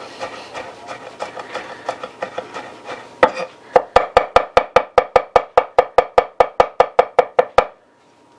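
Kitchen knife chopping garlic on a cutting board: soft, irregular taps and scraping, then about three seconds in one sharp chop and a fast, even run of knife strikes, about five a second, which stops near the end.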